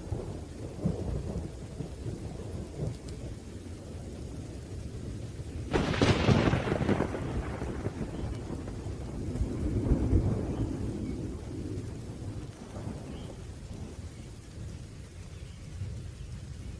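Thunderstorm: steady rain under a continuous low rumble of thunder. A sharp thunderclap comes about six seconds in and trails off into rolling rumble, and another swell of rumble follows around ten seconds.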